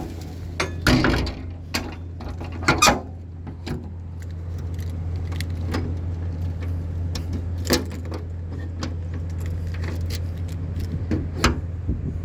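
Metal clinks and clatters from the service truck's utility-body compartment doors and latches being handled, several sharp knocks a second or two apart, over a steady low engine hum.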